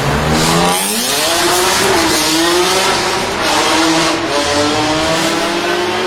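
BMW performance car engine revving hard: the pitch climbs steeply over the first couple of seconds, then is held high with small dips and pulls.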